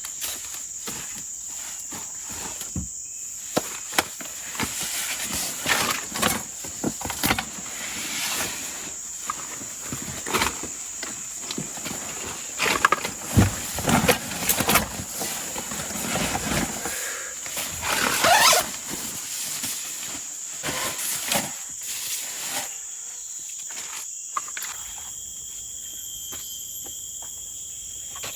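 Irregular rustling, crunching and knocking, like someone moving through forest undergrowth, over a steady high insect drone. A brief rising squeak comes about 18 seconds in, and the knocks die away after about 23 seconds, leaving mostly the insects.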